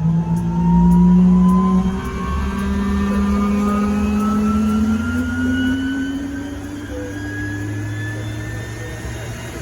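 1966 Westland Wasp helicopter's Rolls-Royce Nimbus turboshaft engine spooling up during its start, its whine rising steadily in pitch.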